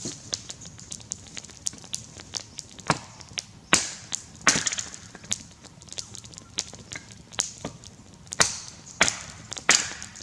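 Axe strokes biting into a grey gum log, in irregular runs of sharp chops with a pause midway. Fainter ticks and clicks fall between the strokes.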